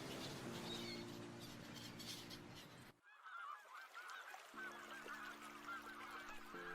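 A flock of geese honking, many short calls overlapping; after a sudden cut about three seconds in, the calls come thick and fast.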